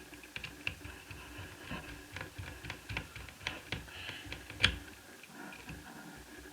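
Small screwdriver and screws clicking and scraping as the motherboard screws of an Asus Eee PC 1001P netbook are taken out: a run of irregular light clicks, with one sharper click about two-thirds of the way in, after which they stop.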